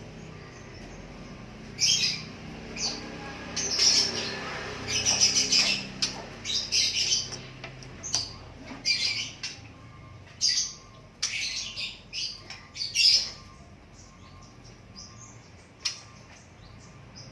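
Short, sharp, high-pitched chirps and squawks of a small bird, coming in quick clusters and thinning out near the end, from a bird whose skin is being stitched closed after a fatty lump was cut out.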